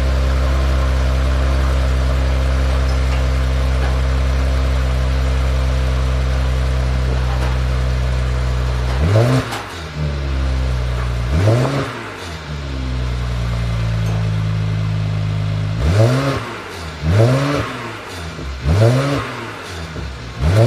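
Mercedes-AMG E43's twin-turbo V6 exhaust, through a ZEES Project aftermarket muffler, idling steadily, then blipped by the throttle: two revs a couple of seconds apart, a short idle, then four quick revs in a row near the end.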